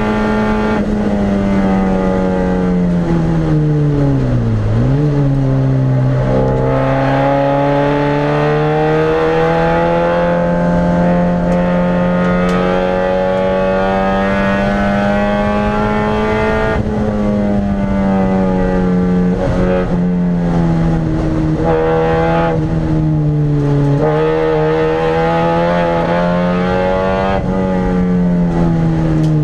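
Rover Metro's 1.8 VVC K-series four-cylinder engine heard from inside the stripped cabin, running hard through the gears on track. The revs drop sharply about four seconds in with a quick blip, then climb slowly, with several more falls and rises in pitch as gears change.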